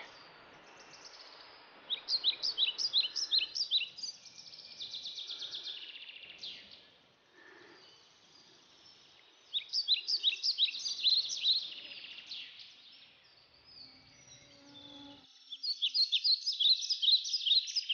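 A small songbird singing: several phrases of quick, high, repeated down-slurred notes, each lasting a couple of seconds, with short pauses between.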